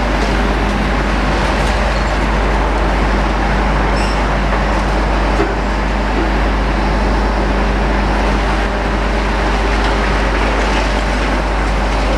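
Diesel engines of demolition machinery running steadily, a continuous engine hum and rumble with no pauses.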